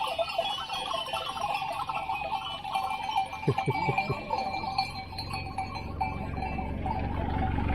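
Neck bells of a grazing flock clinking and ringing, with a few short bleats about three and a half seconds in. Near the end the low running of the motorcycle's engine builds up.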